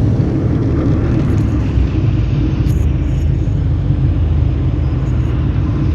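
Ferry's engine running steadily: a loud, constant low drone at the back of the boat, with wind on the microphone.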